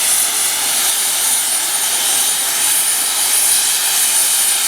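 Steam locomotive (tank engine) blowing off steam, a loud steady hiss with a thin high whistle running through it.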